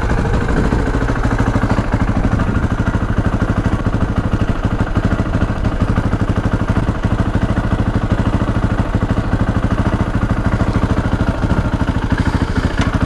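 Dirt bike engine idling steadily, with a fast, even pulse.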